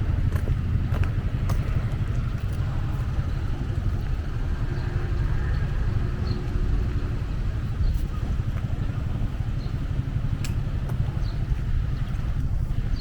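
Outdoor ambience: a steady low rumble, with a few faint short high chirps scattered through it.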